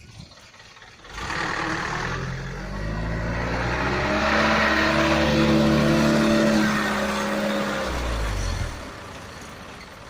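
Truck engine revving up, held at high revs for a few seconds, then dropping back and fading near the end.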